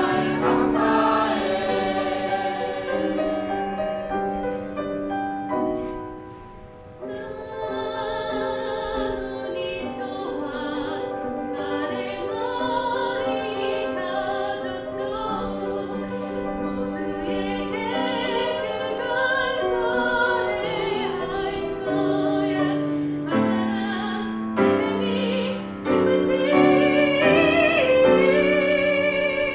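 A choir singing held, sustained phrases, likely with instrumental accompaniment, with a short drop in level about six seconds in between phrases.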